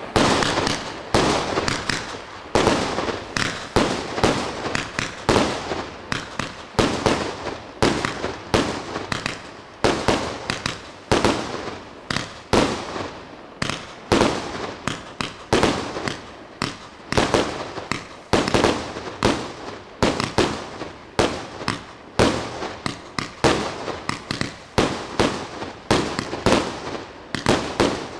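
Multi-shot consumer firework battery (cake) firing a rapid, uneven string of bangs, roughly two to three a second, each dying away quickly.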